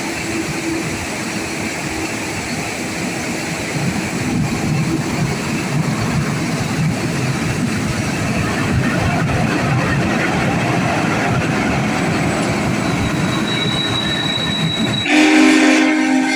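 A train led by Union Pacific Big Boy No. 4014 rolls by with a steady, loud rumble of wheels and running gear that builds after a few seconds, and a thin high squeal a little before the end. Near the end a chime whistle sounds suddenly, several notes at once.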